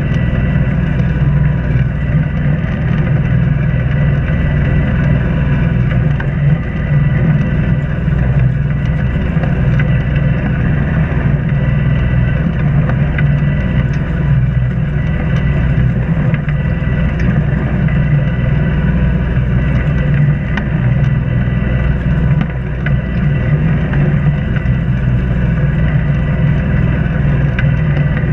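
Islander 36 sailboat's inboard engine running steadily under way: an even, unbroken low drone.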